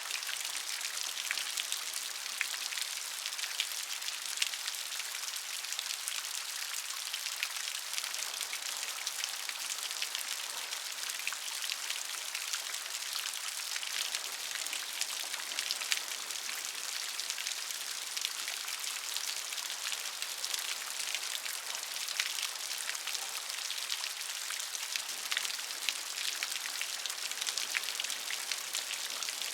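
Steady rain with many fine, crisp drop ticks pattering on a hard surface, an even hiss that stays level throughout.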